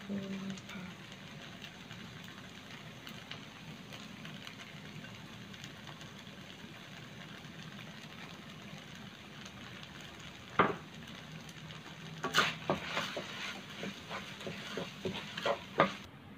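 Rice vermicelli and vegetables sizzling in a nonstick wok, a steady frying hiss. From about ten seconds in, a wooden spatula scrapes and knocks against the pan in a quick run of clicks as the noodles are stirred.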